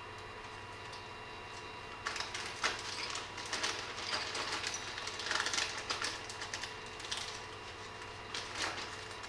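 Irregular clicking, tapping and rustling of small hard parts and tools being handled, starting about two seconds in and easing off near the end, over a steady electrical hum with faint whining tones.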